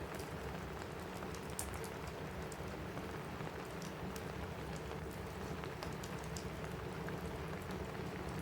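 Steady rain on a cabin roof, mixed with the scattered sharp pops of a crackling wood fire.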